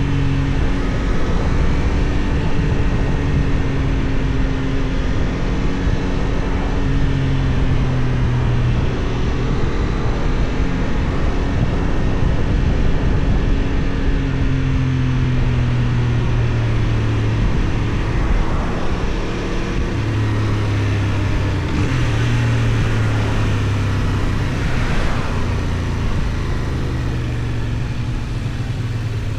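Benelli Tornado 550's 554 cc parallel-twin engine running on the road, its pitch holding and then shifting in steps as the revs change, over steady wind noise on the microphone.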